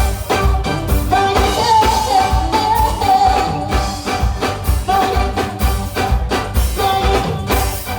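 Live soca music played loud, with a steady, driving bass-drum beat and a held melody line over it.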